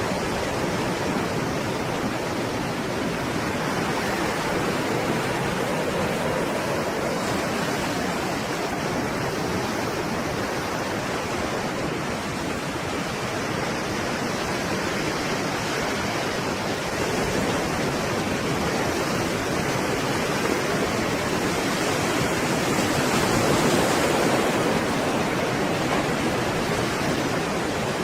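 Stormy sea surf: a steady, loud wash of breaking waves that swells a little about two-thirds of the way through and again near the end.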